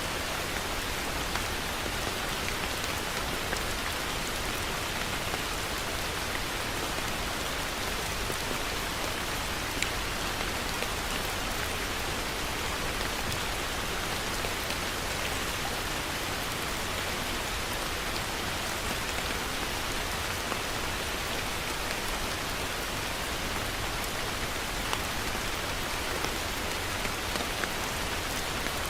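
Heavy rain falling steadily, a dense even hiss of drops with scattered louder drop ticks.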